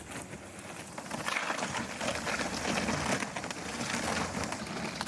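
Kayak and paddle working through the water of a cold lake: a continuous crackling, splashing noise that grows louder about a second in.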